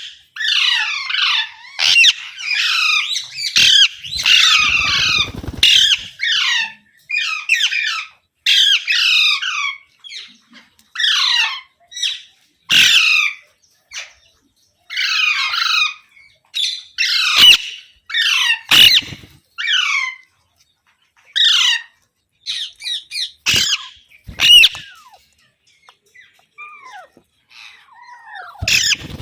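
Pet Indian ringneck parakeet squawking over and over: short harsh calls about once a second, with a few brief pauses, getting fainter near the end.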